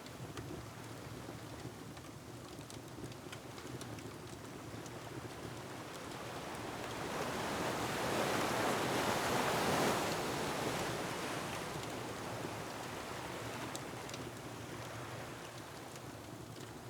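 Ocean surf in a layered ambience: a wave swells to a peak around halfway through and slowly recedes, over a steady rush of wind, with faint scattered crackles of a wood fire.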